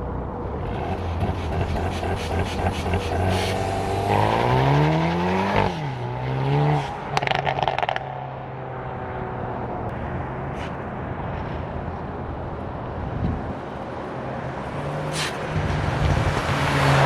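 Hyundai Veloster N's turbocharged 2.0-litre four-cylinder accelerating hard. Its pitch climbs and then drops sharply about five and a half seconds in, followed by a run of exhaust pops and crackles. The engine note climbs again near the end.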